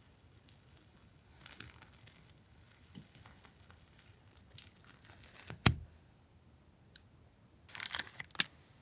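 Crinkling and rustling of paper and plastic packaging as portioned washi tape samples are handled. A sharp knock comes a little past halfway, and a short burst of crinkling near the end.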